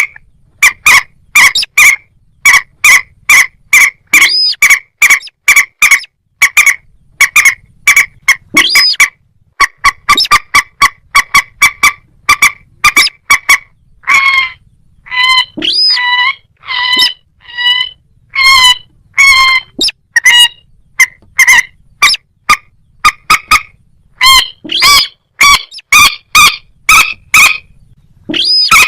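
Rail birds (moorhen and little crake) calling: a rapid run of short, sharp, pitched notes, several a second, with a few upward-sweeping notes. About halfway through, the notes become more spaced and clearer in pitch.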